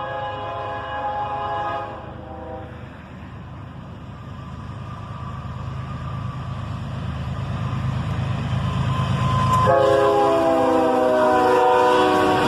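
Freight locomotive's air horn blowing a chord that breaks off about two seconds in. A diesel freight train's rumble then builds steadily as it approaches. About ten seconds in the horn sounds again in one long blast, its chord sliding down in pitch as the lead locomotive passes.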